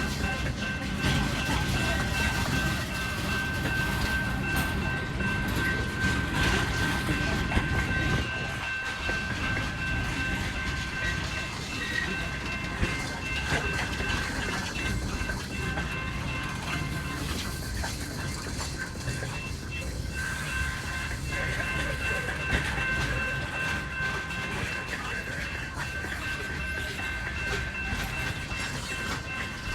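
BNSF freight train cars rolling by on steel rails, with the rumble and clickety-clack of the wheels. Over it is a steady high-pitched whine that drops out for a few seconds a little past the middle. The rumble is louder for the first several seconds.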